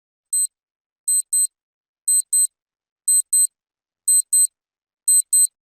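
High-pitched electronic alarm-clock-style beeping: one short beep, then five quick double beeps, about one pair per second.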